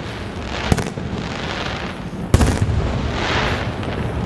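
Aerial firework shells bursting: two sharp bangs about a second and a half apart. Each bang is followed by a lingering crackling fizz from a sky full of golden crackling stars.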